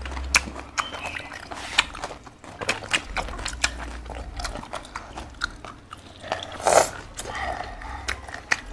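Close-up eating sounds of people chewing boiled pork, with many short wet clicks and mouth smacks scattered throughout.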